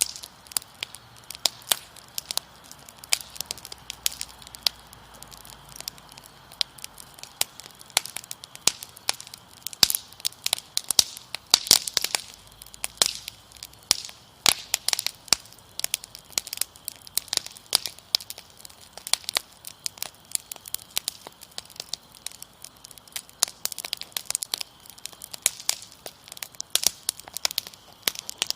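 Wood fire crackling, with frequent irregular sharp pops and snaps, over a faint steady chirring of crickets.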